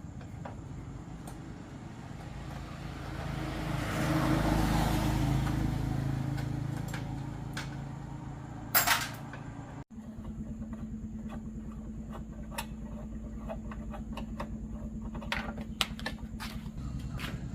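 An engine running steadily, swelling louder for a few seconds early on, with a sharp knock just before the halfway point and a sudden break near ten seconds, after which a steady engine hum carries on.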